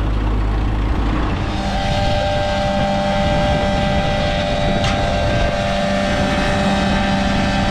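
A motor-driven machine running steadily. About one and a half seconds in, its deep drone drops away and gives way to a higher hum with several steady whining tones.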